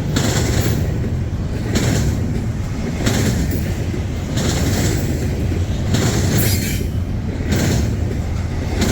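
Freight train, an intermodal stack train, rolling past close by. Its steady low rumble swells in a rhythmic rush about every second and a half as each set of car trucks passes.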